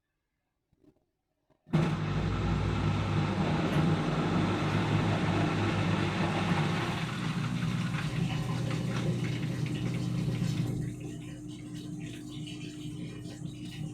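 Overloaded 7 kg washing machine running, its motor humming and its drum turning a heavy wet load of about 10 kg, which strains the motor. The sound starts suddenly about a second and a half in and drops to a quieter level about eleven seconds in.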